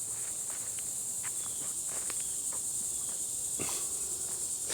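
Steady high-pitched insect chorus of crickets or similar insects, with faint scattered footsteps along the trail.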